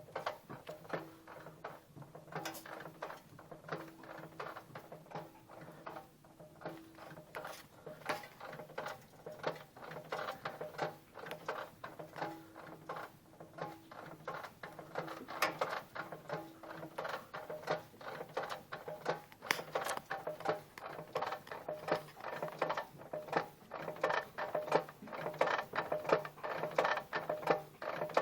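Daewoo Lanos 1.5 with first gear engaged: a fast, irregular clicking rattle from the clutch over a steady engine hum, growing louder in the second half. The owner puts the knock down to the clutch disc.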